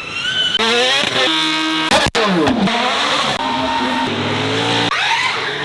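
A rapid montage of different racing car engines revving and accelerating, with abrupt cuts from one engine to the next every half second to a second. Just after two seconds, one car passes by with its engine pitch dropping steeply.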